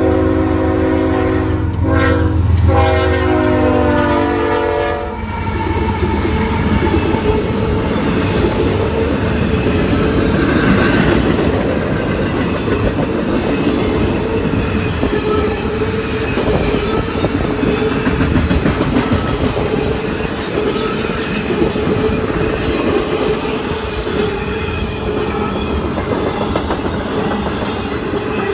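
CSX freight locomotive horn sounding for a grade crossing: two blasts, the first breaking off about two seconds in and the second ending about five seconds in. The diesel locomotives and a long intermodal train of double-stack container cars and trailer flatcars then roll past close by, wheels clattering over the rails.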